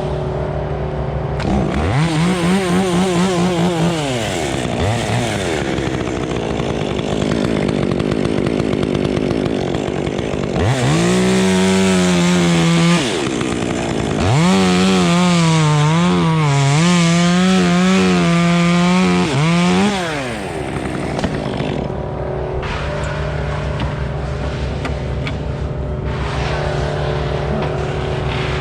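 Chainsaw revving up to full throttle three times, the last and longest run lasting about six seconds with its pitch wavering as it cuts, and dropping back to idle in between. A steady low engine runs underneath throughout.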